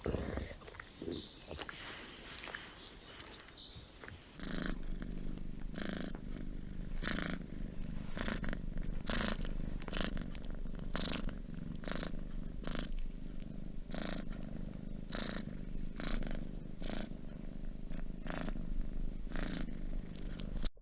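A cat purring: a steady low rumble that pulses about once a second, starting about four seconds in after a short stretch of mixed noise.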